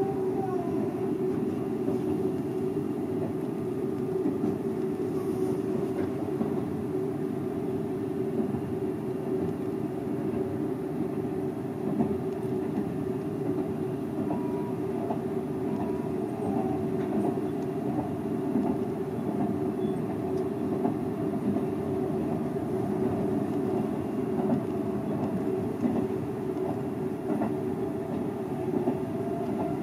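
Seibu 001 series Laview electric train running along the line, heard from inside the front car: a steady rumble of wheels on rails with a constant low hum underneath.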